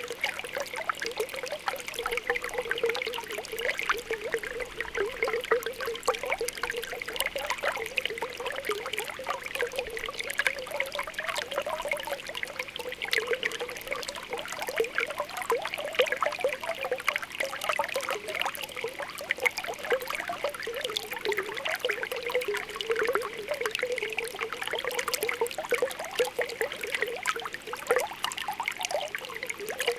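Spring water welling up and bubbling, a continuous patter of small popping and gurgling blips.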